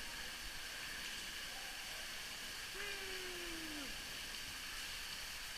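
Steady hiss of water spilling and spraying down onto a lazy river from an overhead water feature.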